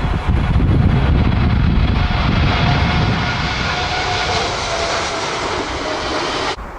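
Jet airliner's engines passing close on landing approach: a steady rushing jet noise with a faint whine, over heavy wind buffeting on the microphone. It cuts off abruptly near the end.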